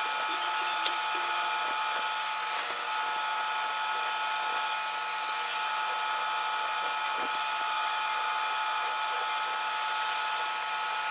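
Electric shop machine running steadily with a constant high whine, and a few faint ticks of tool contact on the metal part.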